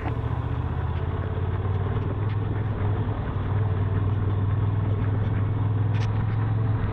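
Motorcycle engine running at a steady, even pitch while riding.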